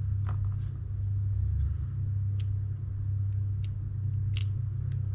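Light, sharp clicks of small spinning-reel parts being handled and fitted, a few times, over a steady low hum.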